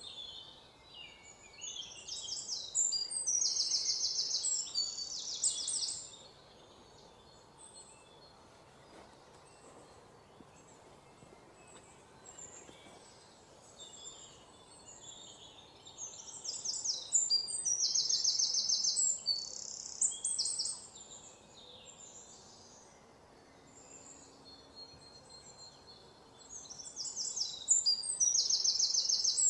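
A bird singing in bouts of rapid high chirps and trills, each bout a few seconds long, about every ten to twelve seconds, over faint outdoor background noise.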